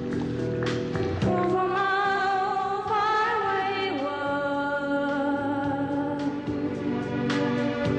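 A song playing: sung notes held and wavering over sustained instrumental accompaniment.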